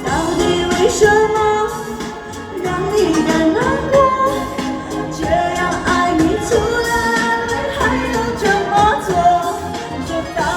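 A Chinese pop song sung live over a backing track, the voice holding and gliding between long notes.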